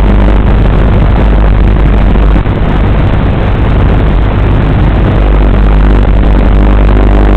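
WLToys 12418 RC car running: a loud, steady motor and drivetrain noise with a low hum, with no pauses.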